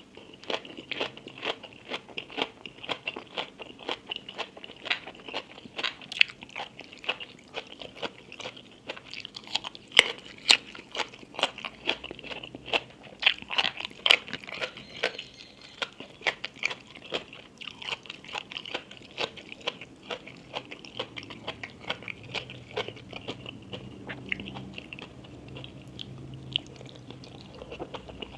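Close-miked chewing of crunchy food: many sharp crisp crunches a second, kept up steadily with wet mouth sounds.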